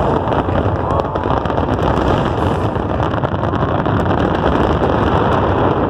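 Fireworks finale barrage: a great many aerial shells bursting almost at once, merging into a loud continuous rumble with fine crackling running through it.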